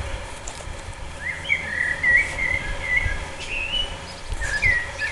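A songbird singing: a quick string of short chirping notes for about two seconds, starting a little over a second in, then a couple more calls near the end. There is a low rumble underneath.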